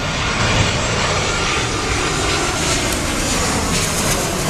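Jet airliner on final approach passing close by: a steady rush of jet engine noise that grows slightly louder, with a faint tone sliding down in pitch.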